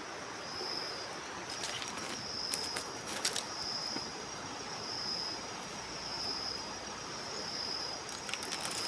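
High-pitched insect trill, steady from about a second and a half in, over the even rush of flowing river water, with a few short sharp clicks.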